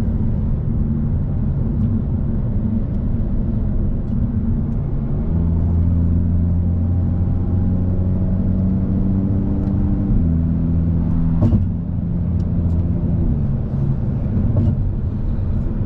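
Car engine and road rumble heard from inside a moving car at highway speed, the engine note holding steady and shifting pitch a few times. A brief sharp click near the end.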